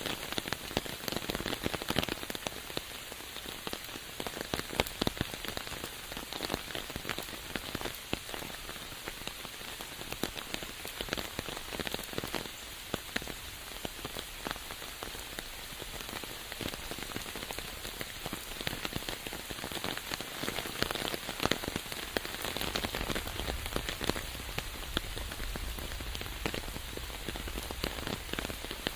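Steady rain falling, with many separate drops striking hard surfaces close by. A low rumble comes in over the last few seconds.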